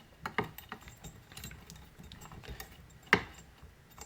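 Light metallic clicks and taps from chainsaw engine parts being handled on the bench, with one sharp click about three seconds in.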